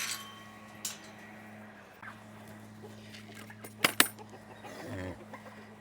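Chickens clucking, with two sharp clicks close together about four seconds in and a steady low hum underneath.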